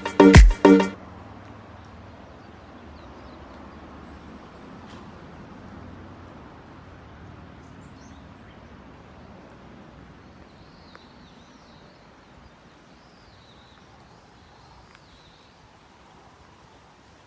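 Music with a heavy beat cuts off about a second in, leaving a faint outdoor background of steady noise. A few faint, wavering bird chirps come in the second half.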